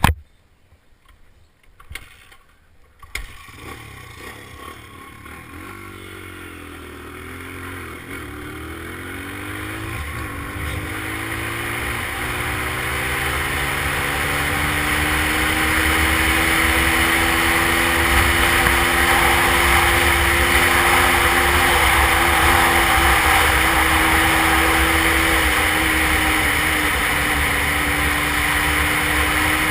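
Dirt bike engine running, faint at first with revs rising and falling, then growing louder until, about halfway in, it holds a steady high note. A couple of sharp knocks come in the first few seconds.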